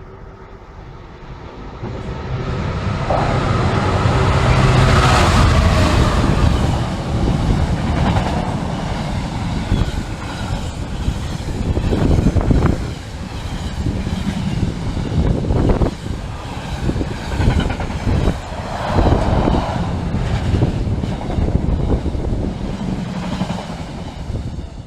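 Class 66 diesel locomotive's two-stroke engine growling as it hauls a container freight train through the station, loudest a few seconds in as the locomotive passes. The container wagons follow with a steady rumble and rattle, their wheels knocking over rail joints several times.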